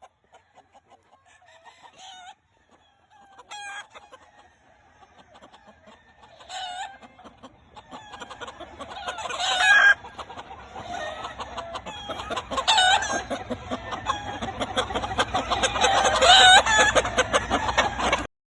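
Gamefowl roosters crowing and clucking: scattered calls at first, then many crows overlapping in a louder, denser chorus through the second half, cutting off suddenly near the end.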